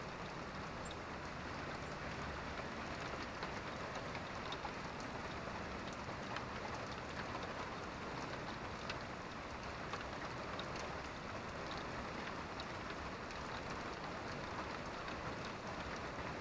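Steady rainfall, an even hiss with scattered small drop ticks.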